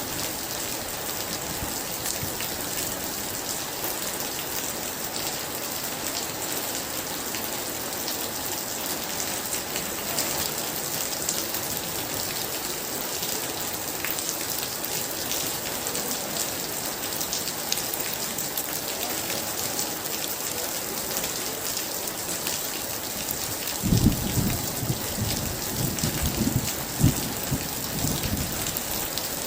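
Heavy rain pouring steadily onto surfaces, with a dense patter. About 24 seconds in, thunder rumbles in a few low rolls lasting several seconds.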